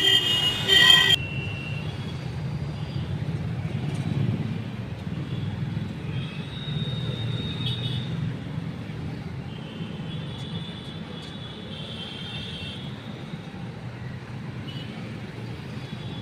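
A horn blares and cuts off about a second in. It is followed by a steady low rumble of road traffic with a few faint clicks.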